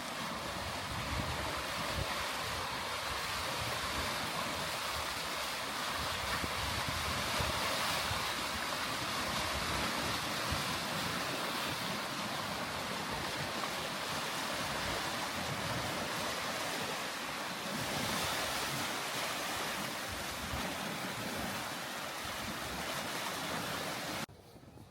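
Lake Michigan waves washing steadily against the shoreline, with some wind; the sound cuts off suddenly near the end.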